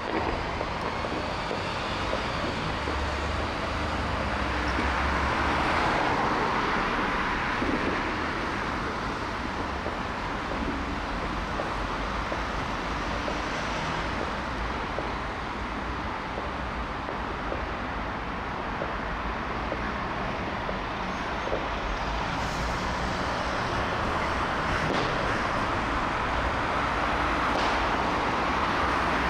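Road traffic: vehicles passing with engine and tyre noise, swelling about six seconds in and again near the end.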